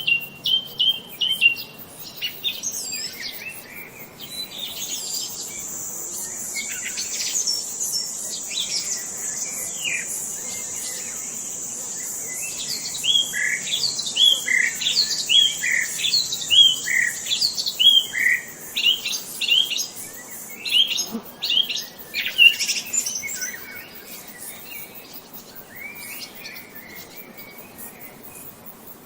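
Songbirds chirping and calling, with one bird repeating a quick falling note about ten times in a row midway through. A steady high-pitched buzz runs under them for much of the time and stops about two-thirds of the way in.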